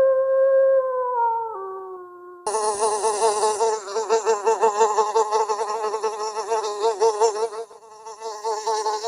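A held, howl-like pitched call that steps down in pitch twice, then from about two and a half seconds in a loud, continuous, wavering buzz like a flying insect.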